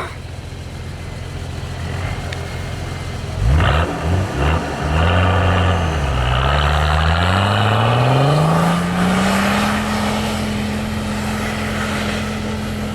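Off-road 4x4's engine running steadily, then revved in several quick blips about three and a half seconds in. The revs then climb steadily over a few seconds and hold high and even.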